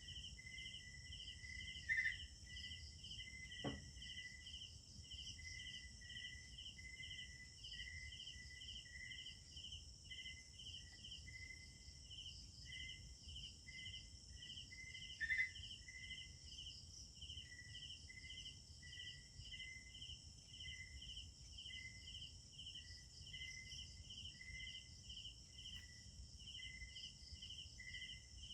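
A faint night chorus of crickets: several insects chirp in steady, evenly repeated pulses, about two a second, over a constant high trill. A brief louder call cuts in twice, about 2 seconds in and again near 15 seconds.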